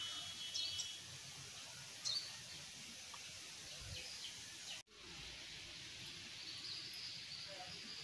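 Outdoor ambience: a steady faint hiss with a few short, high bird chirps and, later, a longer wavering bird call. The sound drops out for an instant a little past the middle.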